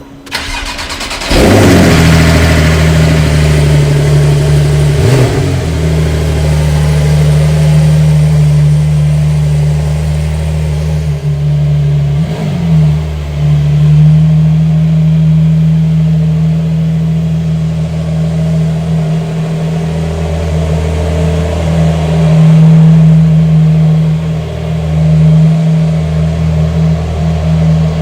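Porsche 992's flat-six engine started from cold. It catches about a second in with a flare of revs, then settles into a steady fast idle broken by two short rises in revs.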